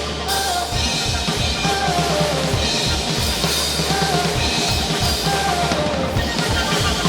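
Live band playing an instrumental passage with no singing: a drum kit keeps a steady beat on kick and snare under a sustained bass and a repeating melodic line that slides downward.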